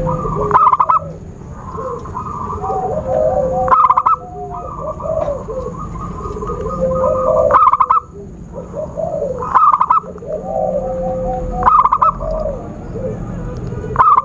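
Zebra doves (perkutut) cooing, several birds overlapping, with a louder rolling coo phrase about every two seconds. This is a lure call used to draw in wild zebra doves.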